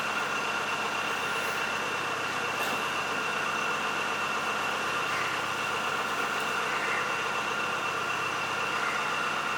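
A steady mechanical hum with a constant high whine, unchanging throughout, with a few faint clicks over it.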